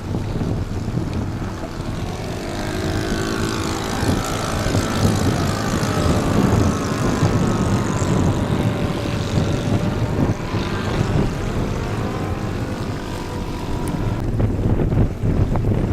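Radio-controlled model seaplane's propeller engine droning as it flies past, its pitch gliding up and down with its passes, then fading near the end. Heavy wind noise on the microphone runs underneath.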